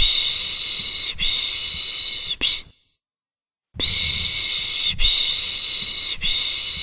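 A person shushing a baby, the soothing 'shhh' sound: sets of three hissing shushes running about four seconds together, each set followed by about a second of silence. One set ends near the start of the second third, and the next begins just before the middle.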